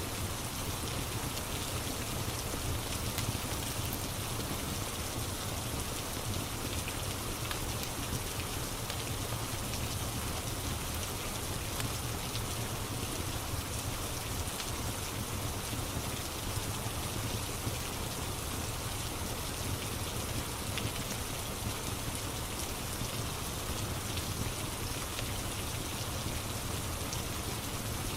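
Steady rain ambience: an even hiss of rain with scattered small drop ticks.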